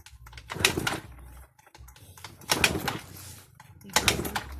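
Yamaha Mio Sporty scooter's single-cylinder four-stroke engine being kick-started with the choke on: three kicks about two seconds apart, each turning the engine over briefly without it catching.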